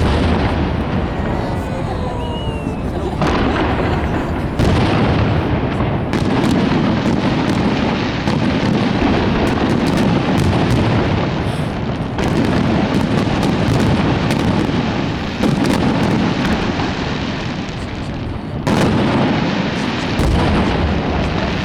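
A fireworks display: a dense, continuous barrage of bursts and booms, many strikes overlapping with no break.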